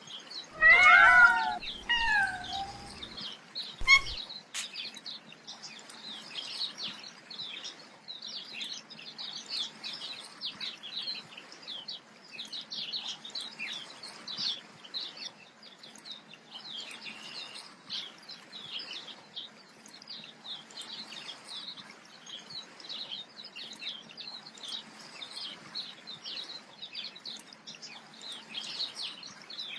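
A cat meows twice at the start, with a sharp click a couple of seconds later, then small birds chirp and tweet continuously over a faint hiss.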